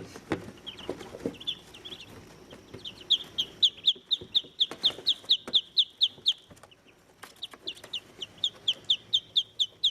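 One-day-old Muscovy ducklings peeping: runs of short, high peeps at about four a second, with a pause around the middle. A few soft knocks in the first second or so.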